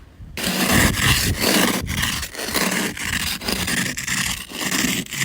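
Plastic ice scraper rasping over an iced-up car window in repeated strokes, scraping at a layer of ice.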